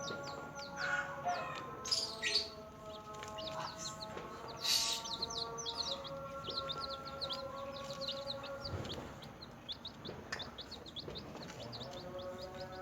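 Newly hatched chicks peeping, many short high cheeps in quick succession that grow dense about halfway through, with a couple of louder bursts. Sustained background music plays underneath.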